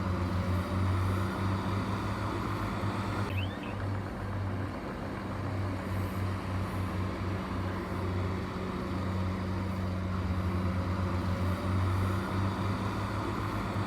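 Heavy diesel construction machine engine running steadily with a low, even hum.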